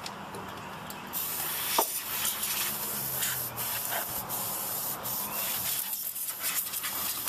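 Can of compressed air spraying, a run of hissing bursts with short breaks that starts about a second in.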